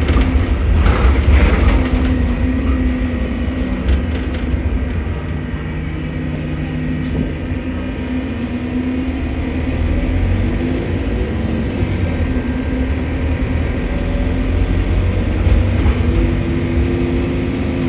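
Stagecoach London bus 36615 running on the road, heard from inside: a heavy low rumble with steady droning tones from the engine and drivetrain. The bus is said to have a leaking turbo that makes a strange noise.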